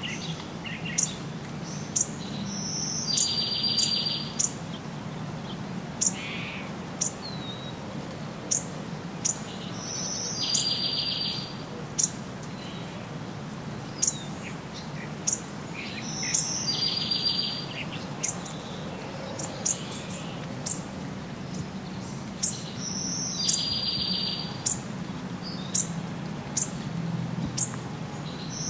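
Wild birds calling: many short, sharp high chirps, and four times, about seven seconds apart, a call of a high note followed by a buzzy trill lasting about a second. A steady low background noise lies underneath.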